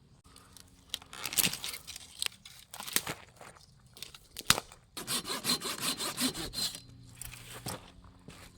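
Dry wood and branches being gathered and handled: scrapes, knocks and rustling, with a run of quick rubbing strokes from about five to seven seconds in.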